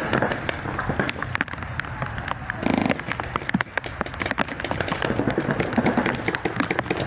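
Rain pattering, with many irregular sharp taps over a steady hiss and a short dense burst about two and a half seconds in.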